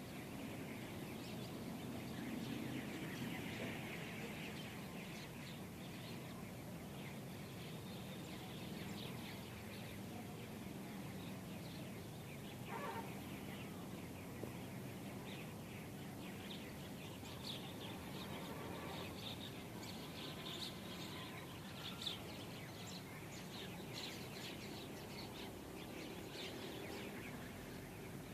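Many small birds chirping in short, high calls over a steady background hiss, with the calls growing busier in the second half.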